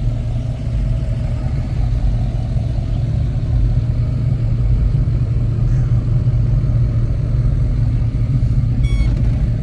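A car's engine running steadily with a heavy low rumble. A brief high beep sounds near the end.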